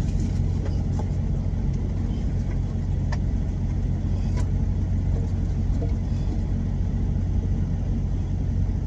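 Steady low drone of an idling truck engine heard inside the cab, with a few light clicks from handling things.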